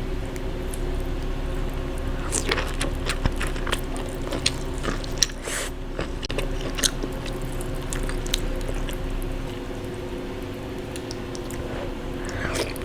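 Close-miked eating of a saucy seafood boil: wet chewing and biting, with a run of sharp crunches and clicks in the first half and a few more near the end, over a steady low hum.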